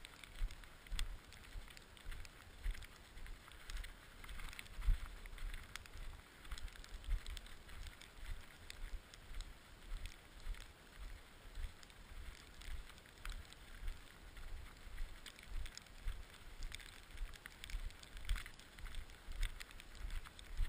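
Rushing wind and scraping hiss on the microphone, with uneven low thumps roughly twice a second and scattered clicks, as from a camera carried down a run over bumpy ground.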